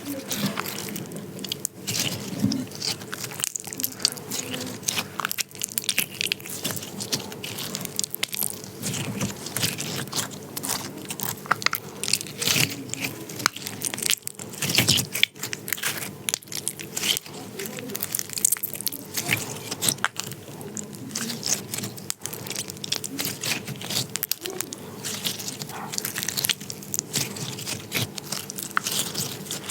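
Glitter slime being squished and worked, with a continuous run of irregular sticky pops and crackles.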